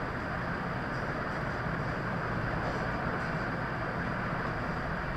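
Steady background noise, an even hiss and low rumble with no distinct events, in a pause between spoken words.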